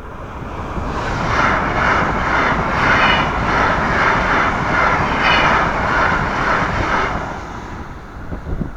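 Electric local train passing through a railway level crossing: a rushing rumble that builds over the first second, holds for about six seconds with an even pulsing about twice a second, then fades away.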